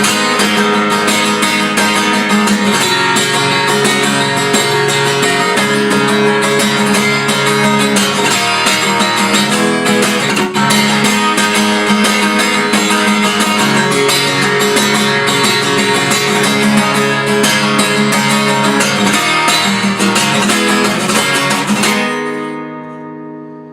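Acoustic guitar strummed in a steady, fast rhythm through a chord sequence, with no singing. About a second before the end the strumming stops and a last chord is left ringing and dying away.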